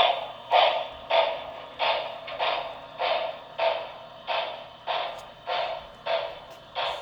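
HO-scale Broadway Limited Imports 'Blue Goose' model steam locomotive's onboard sound playing steady exhaust chuffs, a little under two a second, as it hauls freight.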